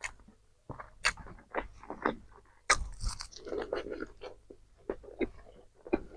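A person biting into and chewing crispy KFC fried food close to the microphone: irregular crunches and crackles, the loudest about two and a half seconds in.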